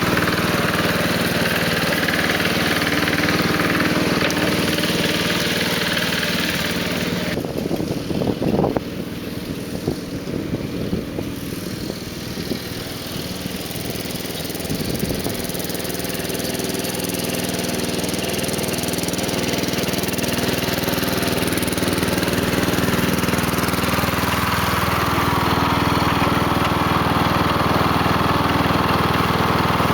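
Small gasoline engine of a home-built forward-control tractor running steadily. About eight seconds in the sound changes with a brief clatter, and the engine note then slowly grows louder.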